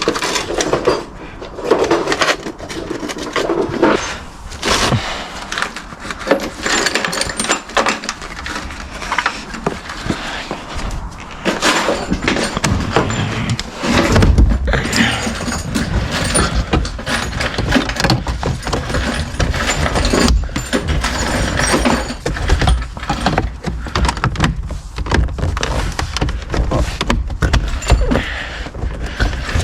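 Knocks and clatter of car interior parts being handled and fitted. About halfway through, a deep bass beat of rap music comes in and keeps going.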